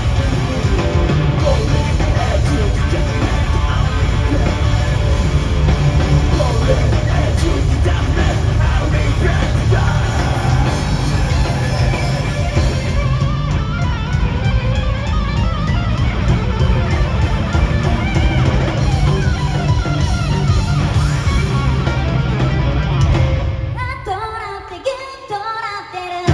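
Live rock band playing loud, with electric guitar, bass and drum kit. A little before the end the full band drops out to a quieter, sparser passage.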